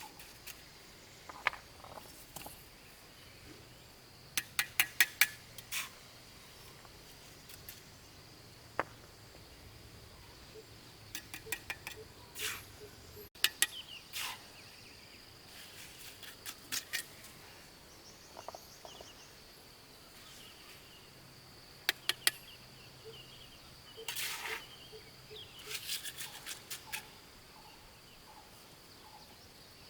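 Stones clacking against one another in short runs of sharp knocks, with pauses between, over the steady high buzz of insects.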